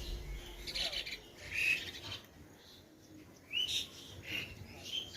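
Birds calling: about six short chirps, spaced a second or so apart, some rising in pitch.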